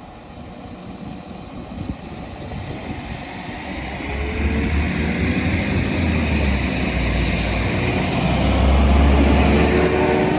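A train approaching along the line, its low rumble growing steadily louder and loudest near the end.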